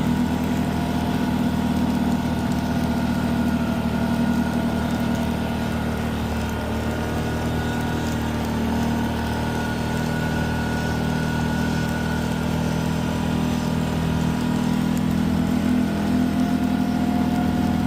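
Car running at a steady pace: a continuous engine hum with road noise, its tones drifting slightly in pitch.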